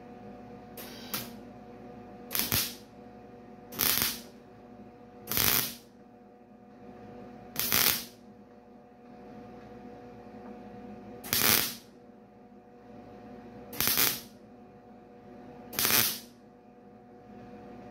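Welder laying short tack welds on a steel grill bar: eight brief bursts, one to three seconds apart, over a steady electrical hum.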